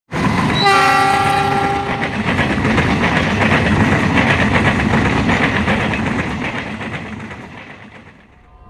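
Train passing at speed, sounding its horn with a blast of about a second near the start, then wheels clattering over the rails, fading away near the end.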